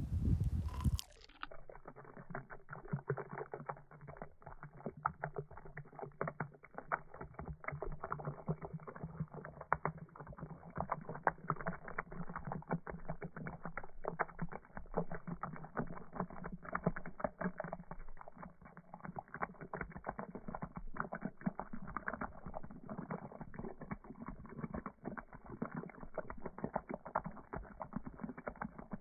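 A teapot heating over an open wood fire: dense, irregular crackling and popping with a steady low hum beneath. For about the first second, wind buffets the microphone before it cuts off suddenly.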